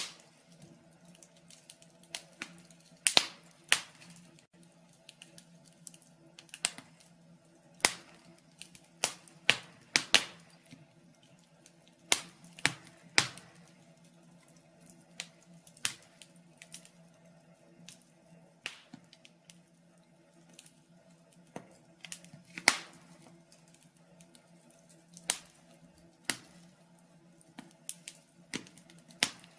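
Wood fire in a fireplace crackling, with sharp pops at uneven intervals over a faint steady hum.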